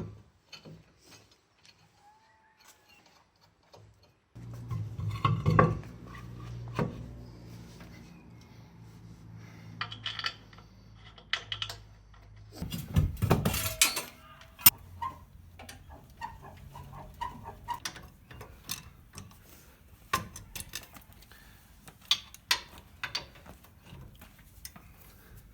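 Metal clinks and clatter of tools and brake parts being handled during reassembly of a rear drum brake. A low steady hum comes in about four seconds in, with the loudest burst of clatter about halfway through.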